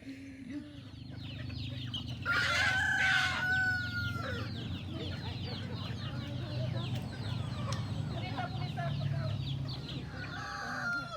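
A flock of chickens clucking and peeping, with many short high calls throughout. A rooster crows once about two seconds in, the loudest sound, held for over a second.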